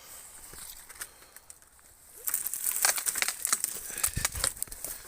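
Dead branches and twigs crackling and snapping as dead wood is pulled about in the undergrowth. It is a few faint cracks at first, then a dense run of sharp cracks from about two seconds in.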